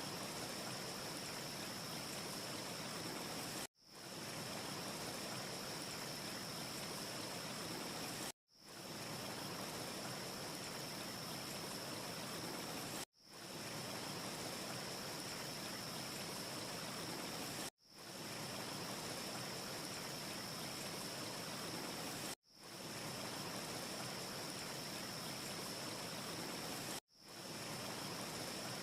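Steady rushing hiss with a thin high whistle-like band through it. It cuts out abruptly and fades back in about every four to five seconds: a short ambience loop repeating with gaps, six times here, with no fire crackle to be heard.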